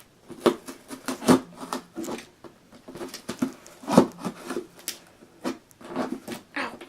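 A taped cardboard shipping box being handled and worked open by hand: irregular rustles, scrapes and knocks, the loudest about four seconds in.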